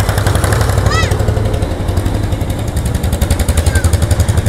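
Old tractor engines running with a fast, even firing beat.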